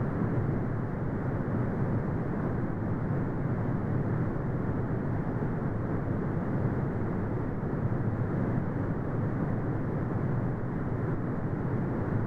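Synthetic brown noise: a steady, deep, unpitched rush with no high end, holding constant with no changes or interruptions.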